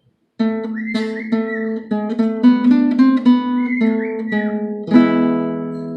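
Acoustic guitar picked note by note, playing a song's intro melody that starts about half a second in and ends on a chord left ringing near the end. A pet bird whistles along twice in short gliding notes.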